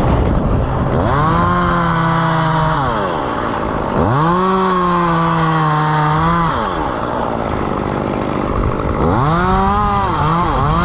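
Two-stroke chainsaw idling, then revving up to full speed three times, each held for one to two and a half seconds before dropping back to idle.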